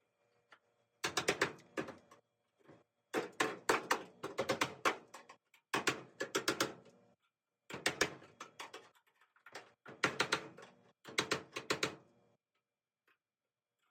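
Rapid tapping in six or seven runs of about a second each, several taps a second, with short pauses between runs.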